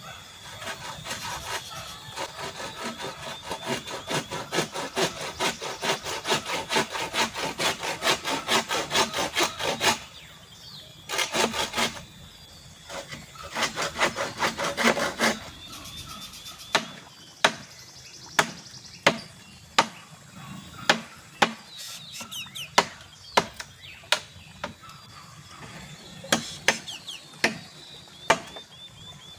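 Bamboo being cut with a hand saw: fast, even back-and-forth strokes that grow louder over several seconds, stop, then come in two short bursts. After that, about a dozen separate sharp wooden knocks.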